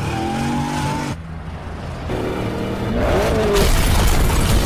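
Car engine revving hard in rising sweeps as the car's wheels spin in a smoky burnout, turning into a louder rush of engine and tyre noise for the last second or so.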